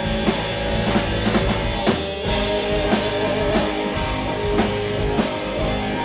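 Rock band playing live: drum kit and guitars in an instrumental stretch between vocal lines, with a brief stop about two seconds in before the band comes back in.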